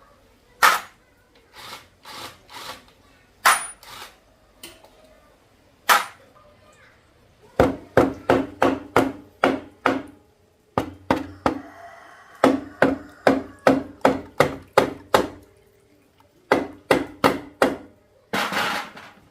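Hammer striking metal, scattered blows at first, then quick runs of about three ringing blows a second. Near the end there is a short rasping burst.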